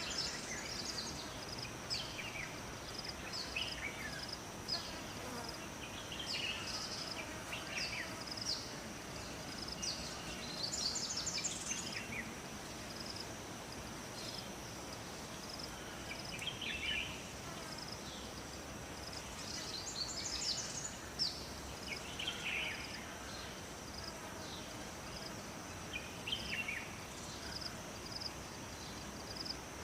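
Forest ambience: songbirds singing short phrases every few seconds over a steady high insect drone and a rapid repeated chirping, with an even low hiss underneath.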